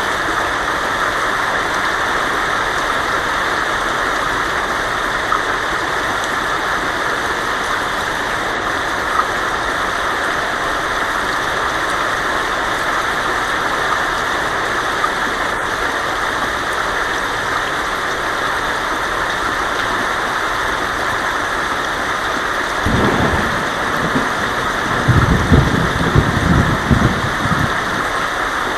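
Heavy rain falling steadily on a tin roof. Near the end, low rumbles of thunder roll in twice.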